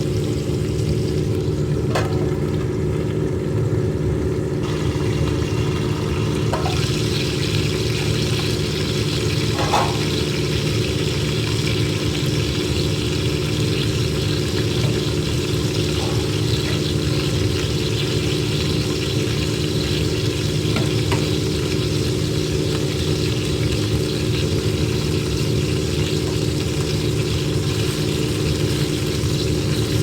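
Chicken sizzling as it cooks, a steady hiss that grows stronger about four and a half seconds in. A steady low machine-like hum runs underneath, with a few faint clicks.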